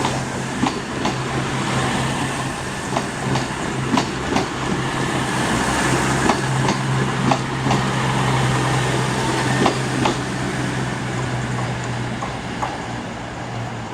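A CrossCountry Class 221 Super Voyager diesel-electric multiple unit (two units coupled) moving through the station with its diesel engines running, a steady low hum over a loud wash of running noise. Irregular sharp clicks and knocks come from the wheels over the track throughout. The noise eases slightly near the end.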